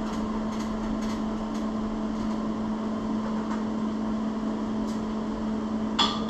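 A steady mechanical hum runs throughout, with a few faint ticks and one short, sharp metallic clank about six seconds in, as a steel pin is worked back and forth in a plow-mount bracket.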